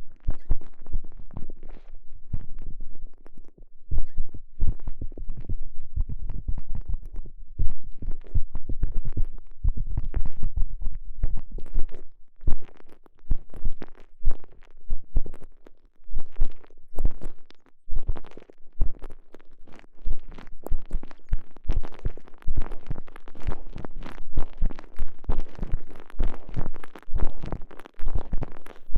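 A microphone inside a TENGA Egg's stretchy elastomer sleeve, which is squeezed and rubbed by hand: close, muffled squishing and rubbing in quick, irregular strokes with a deep, heavy low end.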